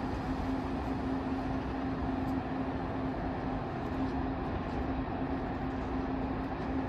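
ICE 2 high-speed train at a platform, giving a steady hum with one constant mid-low tone over an even rumble, neither rising nor falling.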